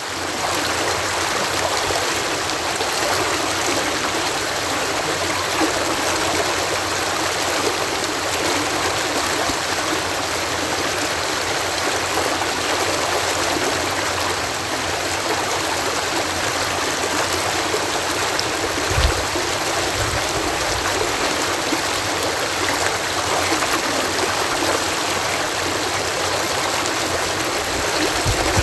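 Water cascading through a canal lock: a steady, even rush of falling water, with a few brief low thumps about two-thirds of the way through.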